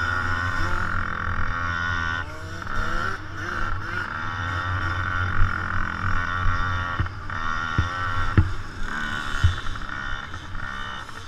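Small motocross bike engines racing, their pitch rising and falling as they rev up and back off, over a steady buzz, with a few short thumps.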